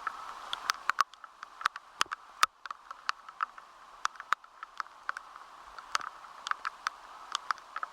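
Heavy rain falling: a steady hiss with many irregular sharp taps of drops striking a hard surface close by, several a second.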